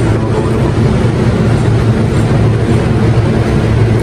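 Electric commuter train at the platform giving off a steady low hum and rumble that holds at one level, with no clickety-clack.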